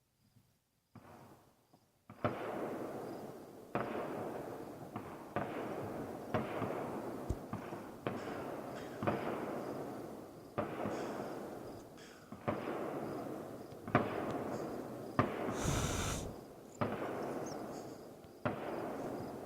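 Distant fireworks going off in a quick string, about one boom a second, each sharp report trailing into a long rolling echo.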